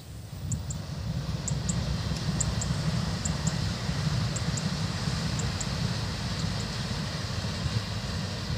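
TRA EMU3000 electric express train passing at a distance: a steady low rumble with a hiss above it, and faint clicks in pairs about once a second.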